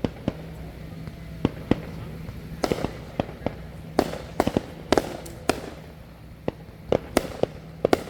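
Fireworks going off in a backyard display: a string of sharp, loud reports at irregular intervals, coming thickest about halfway through.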